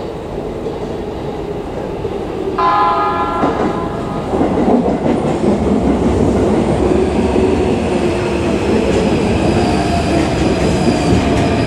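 An electric commuter train sounds its horn for about a second, then comes through with loud wheel-on-rail running noise and clacking over rail joints, a thin wheel squeal rising near the end.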